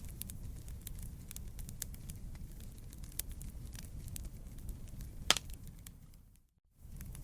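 Wood fire crackling, with scattered small snaps over a low steady rumble and one loud pop about five seconds in. Near the end the sound fades out and drops to silence for about half a second, then resumes.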